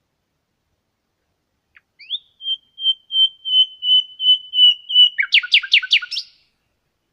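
A songbird sings one phrase. It opens about two seconds in with a rising note, then a string of short whistled notes on one pitch, about three a second, growing louder, and ends with a quick run of five or six steep downward-sweeping notes.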